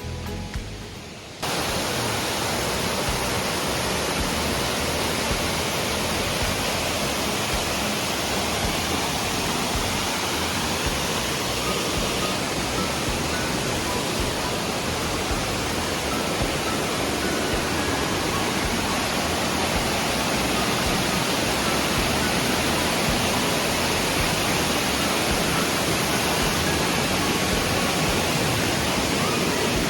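Steady rushing of a creek's flowing water, starting abruptly about a second and a half in after a brief fading tail of music.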